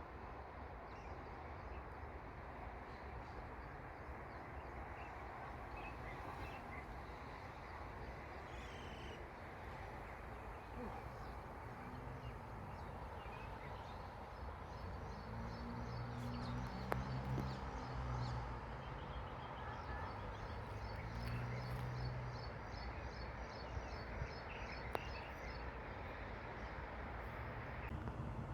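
Outdoor ambience: a steady background wash, with a bird chirping in quick repeated notes through the second half and a low hum swelling in the middle.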